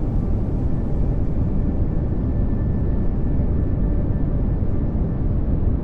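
Steady pink noise: an even rushing hiss, heaviest in the low end and thinning toward the top, with no change in level.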